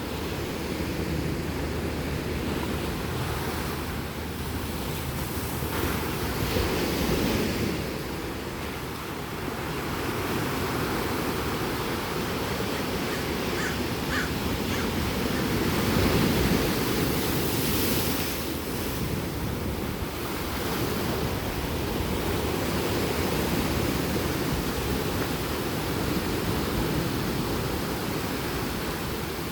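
Ocean waves breaking and washing up on a beach, a steady surf with swells as waves crash, around a quarter and again about halfway through.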